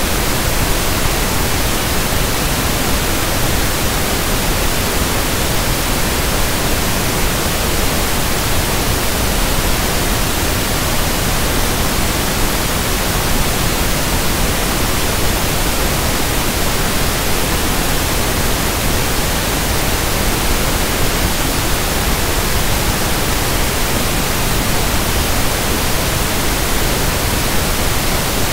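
Synthetic pink noise (1/f noise): a steady, even hiss across all pitches that does not change.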